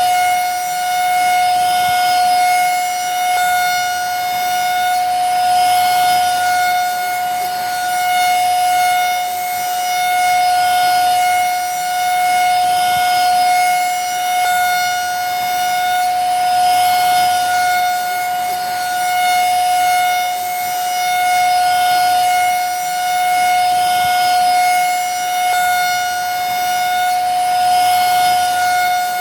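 Vacuum cleaner running continuously, a steady high motor whine over an even hiss, its level wavering gently every couple of seconds.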